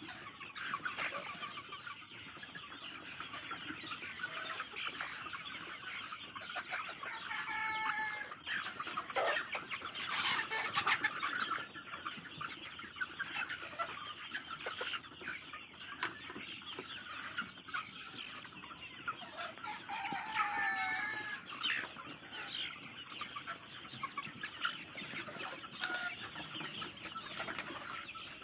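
A large flock of native chickens clucking continuously in a dense chatter. Twice, about 8 and 20 seconds in, louder drawn-out calls rise above the flock.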